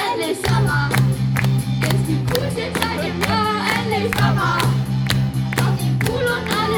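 Band playing a song with sung vocals over a steady drum beat and bass line.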